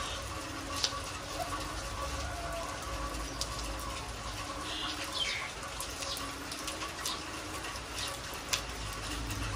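Steady rain falling on a concrete yard and into puddles, with a few short high bird chirps over it.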